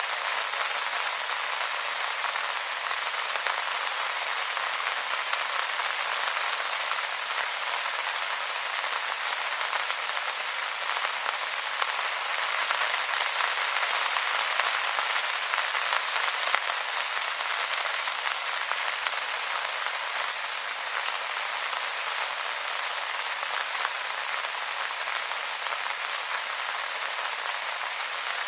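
Steady rain falling on wet leaves: an even hiss of many small drop impacts with no low rumble, holding at one level throughout.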